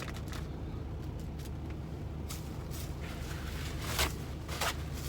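Steady low hum of an idling semi truck's engine, with a few sharp knocks and clicks of things being handled, the loudest about four seconds in.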